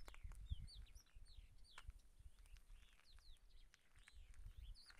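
Birds chirping faintly: a scattered run of short, quick chirps that rise and fall in pitch, over a faint low rumble.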